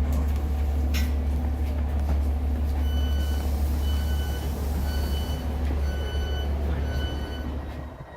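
Steady low hum of a Class 150 diesel multiple unit, with a click about a second in and, from about three seconds in, a row of short high door-warning beeps about once a second, signalling the doors operating at the terminus. The hum cuts off just before the end.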